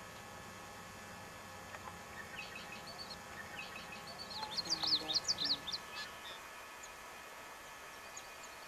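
A songbird singing: a run of short, high chirping notes that builds to a louder, quicker burst about halfway through, then trails off.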